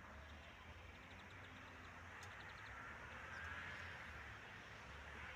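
Quiet outdoor ambience with a low rumble, broken by a few faint, quick high chirps, about a second in and again just after two seconds, from small birds swooping overhead.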